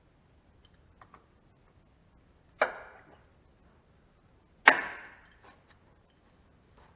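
Two sharp knocks about two seconds apart, the second the louder, each with a short ringing tail, with a few faint clicks about a second in.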